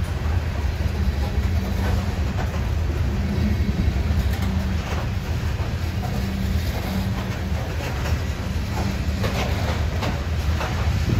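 Freight train of loaded covered hopper cars rolling past close by: a steady rumble of the cars and wheels, with a few clacks of wheels over rail joints.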